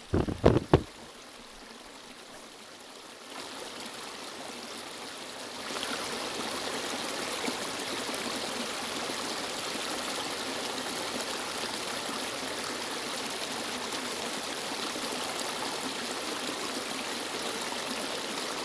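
Mountain river flowing in a steady rush of water, growing louder in two steps within the first six seconds and then holding even. A few loud, sharp thumps in the first second are the loudest thing heard.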